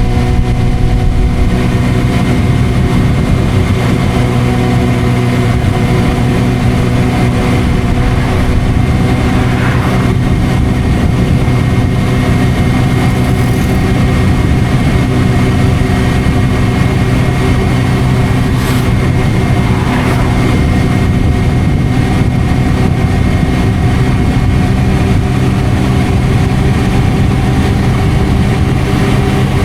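Suzuki GSR600's inline-four engine running through an aftermarket Dominator exhaust, holding a steady engine speed with an even, unchanging note.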